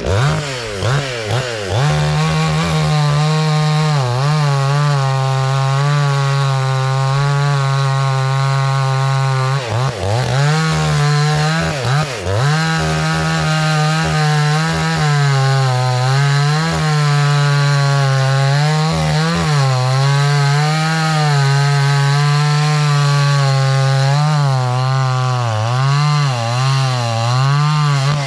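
Garwinner 62 cc two-stroke chainsaw running at full throttle while cutting a log. The engine note dips sharply twice about ten and twelve seconds in as the chain bogs in the wood and recovers each time. It wavers up and down more often near the end, then drops away.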